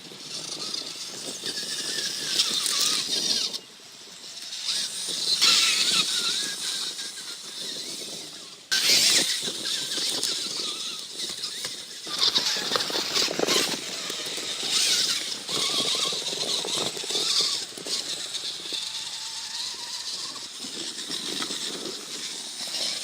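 Electric motors and gears of a motor-on-axle RC rock crawler, one motor on each axle, whining as throttle is fed in and eased off, with the level rising and falling in stretches.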